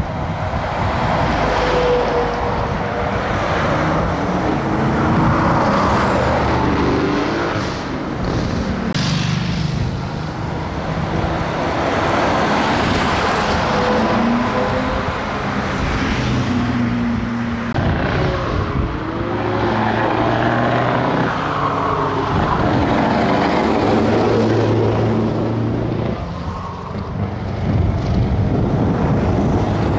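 Heavy trucks driving past, their diesel engines running with a pitch that shifts up and down as they go by.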